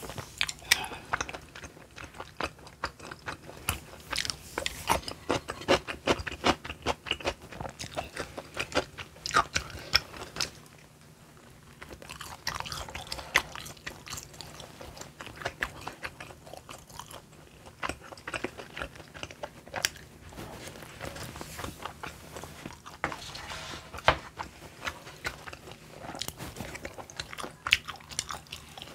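Close-miked chewing and crunching of food, a quick run of small clicks and crackles, with a brief lull about eleven seconds in. She is eating rosé tteokbokki, with fried snacks beside it.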